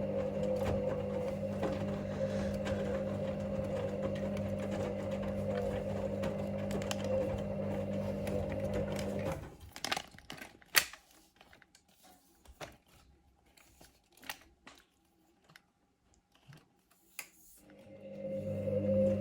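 Hoover Link washing machine on its main wash: the motor hums steadily as it turns the drum, then stops abruptly about nine seconds in. A pause follows with a few scattered clicks and knocks, and near the end the motor starts again to turn the drum once more.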